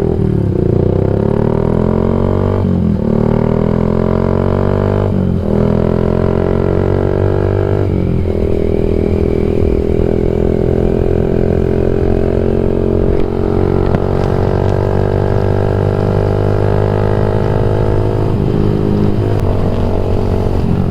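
Yamaha MX King 150 single-cylinder four-stroke engine through a Rob1 TGA aftermarket exhaust, accelerating through the gears on the move. The pitch climbs and drops back at three upshifts in the first eight seconds, then holds steady at cruising speed.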